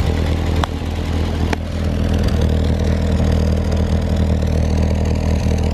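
Toyota Corolla engine running steadily through a tailpipe fitted with a plastic bottle with holes cut in its side, a makeshift novelty exhaust. There are two sharp clicks in the first two seconds, the engine note steps up slightly about two seconds in, and a faint wavering high whistle comes in over the second half.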